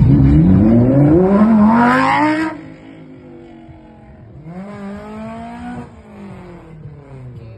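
Car engine revving up hard, its pitch climbing steadily for about two and a half seconds before the sound drops off abruptly. A second, quieter engine rev rises and falls about five seconds in.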